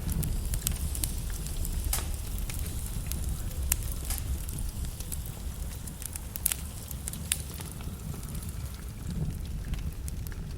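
Wood logs burning in a fireplace, with irregular sharp crackles and pops over a steady low noise of the flames.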